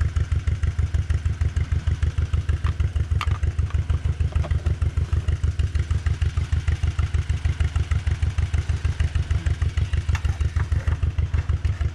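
Old farm tractor engine idling steadily, an even rapid pulse of about six beats a second, with a few light clicks over it.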